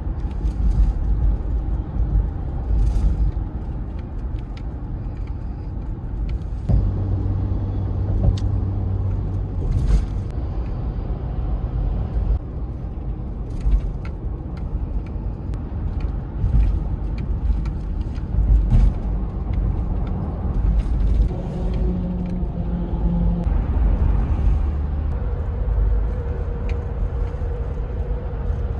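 Car on the move: steady low road and engine rumble, with its pitch shifting slightly a few times and light clicks and knocks over it.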